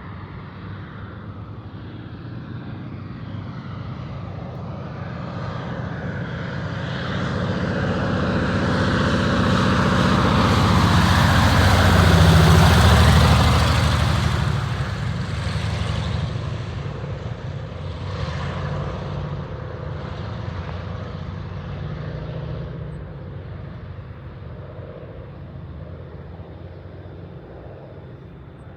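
Propeller floatplane's piston engine running at high power as the plane passes close by. It grows louder for about twelve seconds, drops in pitch as it goes past, then fades away.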